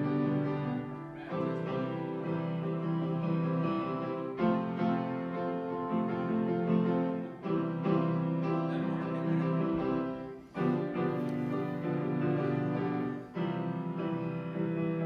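Keyboard instrument playing slow held chords, a new chord every couple of seconds, with little low bass in the sound.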